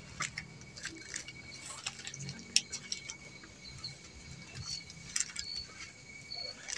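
Scattered light clicks and knocks, the sharpest about two and a half seconds in, over a steady high cricket trill, with a few short higher chirps near the end.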